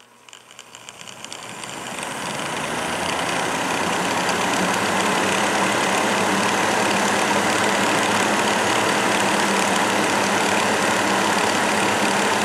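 Breezeway MBF-907 9-inch box fan starting up on its low setting: the motor and blades spin up, the sound growing over the first two to three seconds, then running steadily with a hum over the rush of air.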